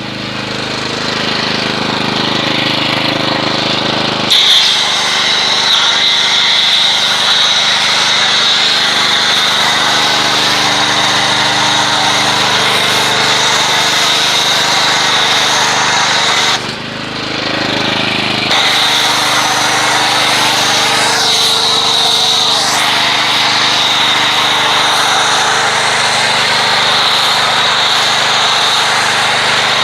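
Pressure washer running, its motor humming steadily under the hiss of the water jet. The spray gets louder about four seconds in, stops for a couple of seconds past the middle while the motor keeps running, then starts again.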